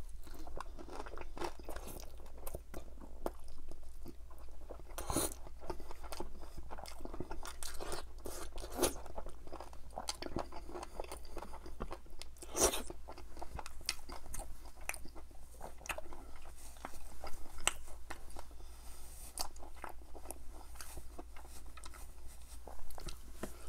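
Close-up chewing and biting of crispy-skinned chicken drumsticks in butter chicken sauce: a steady run of small crunches and mouth sounds, with a few louder crunches about five, nine and thirteen seconds in.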